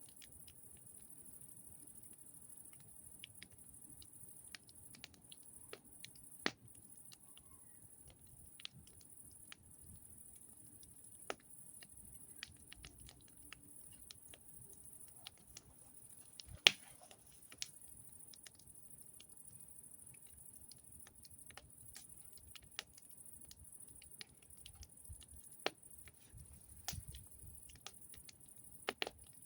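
Campfire burning with irregular sharp crackles and pops, one louder snap about halfway through, over a steady faint high hiss.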